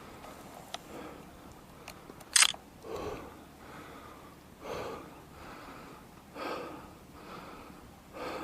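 A person breathing hard in slow, regular breaths, about one every second and a half or two. There is one sharp, loud click about two and a half seconds in.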